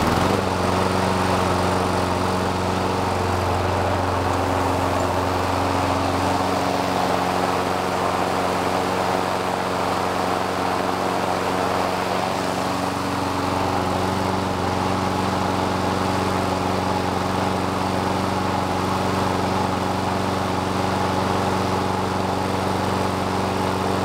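Electric-start lawn mower engine running steadily just after a cold start, primed and unchoked.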